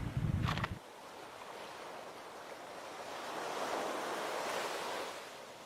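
Waves washing on the shore, a steady hiss of surf that swells for a couple of seconds past the middle and then fades. It is preceded under a second in by a brief low wind rumble on the microphone that cuts off suddenly.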